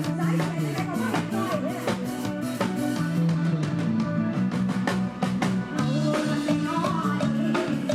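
Live band music with a steady drum-kit beat and a bass line, melodic instrument lines playing above.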